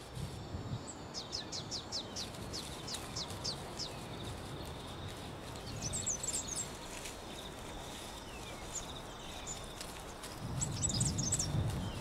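Outdoor nature ambience with small birds calling: a quick run of short falling chirps, about four a second, in the first few seconds, and bursts of high twittering around the middle and again near the end. Low rustling sounds rise near the end as the rock hyrax feeds in the shrub.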